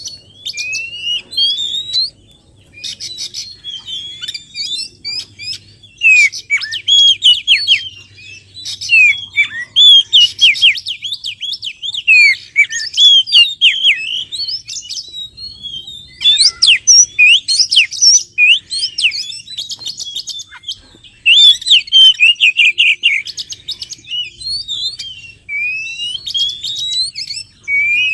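Oriental magpie-robin (kacer) singing: a loud, varied run of whistled phrases, with rising sweeps and rapid trills, broken by short pauses.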